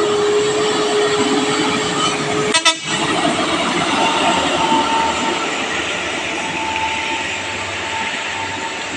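Motor vehicle running with steady engine and road noise and a held whining tone; a sudden break about two and a half seconds in, after which a higher whine continues.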